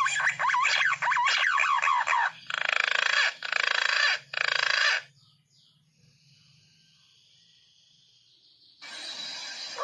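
Punai (green pigeon) calls used as a lure: a rush of overlapping whistled notes gliding up and down, then three harsh rasping calls of about half a second each. A few seconds of near silence follow, and another rasp begins near the end.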